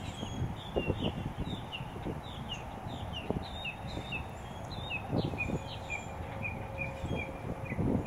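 A songbird singing a run of short falling whistles, about three a second, which changes about five seconds in to a string of flatter, evenly spaced notes. Low gusty rumbles sit underneath.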